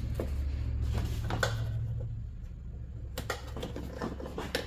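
Scattered plastic clicks and knocks of a car tail light housing and its wiring harness being worked out of the rear body panel, over a low hum that weakens about two seconds in.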